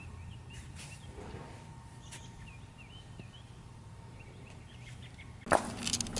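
Small birds chirping faintly over a low steady hum. About five and a half seconds in, a sudden loud noise breaks in, followed by a steady low tone.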